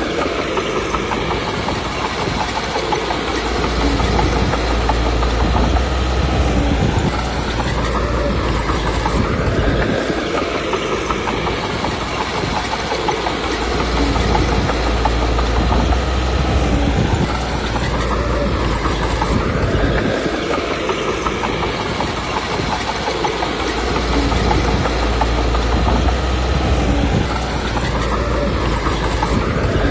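Small Komatsu D21P crawler bulldozer working: the diesel engine runs under changing load with the steel tracks clattering. The engine swells and eases again in a repeating cycle about every ten seconds.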